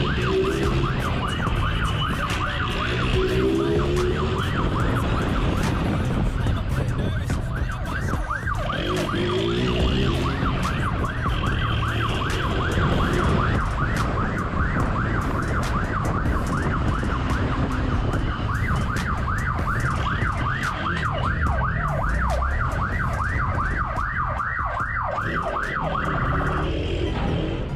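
Police siren in a fast rising-and-falling yelp, sweeping a few times a second, over a steady low rumble of vehicle noise; the siren cuts off near the end.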